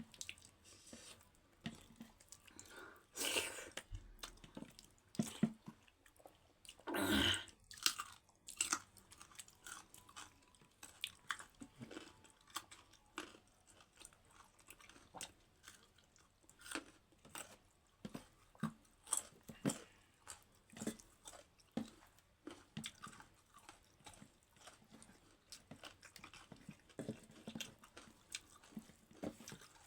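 A person eating close to the microphone: wet chewing and mouth clicks with some crunching, many short sounds in quick succession. Two longer, louder eating sounds come about three and seven seconds in.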